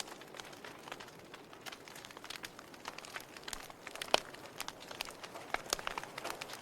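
Log fire crackling: irregular sharp pops and snaps from burning wood over a soft steady hiss, with one louder pop about four seconds in.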